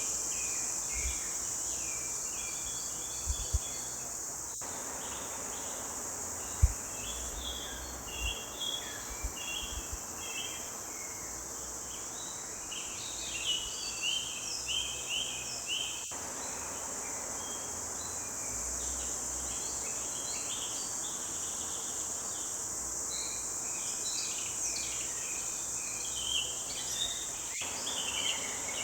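Small forest songbirds chirping and trilling in a morning chorus, several short phrases overlapping, over a steady high-pitched drone.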